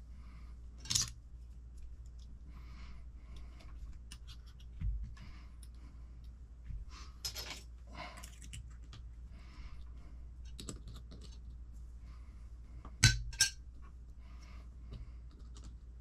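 Small hard parts of a radio-controlled truck kit being handled and set down on a workbench: scattered clicks and clinks with light rustling between them. The loudest is a sharp double click about 13 seconds in.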